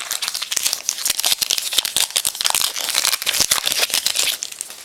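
Plastic-foil trading-card pack wrapper being torn open and crinkled by hand, a dense run of crackles that stops about four and a half seconds in.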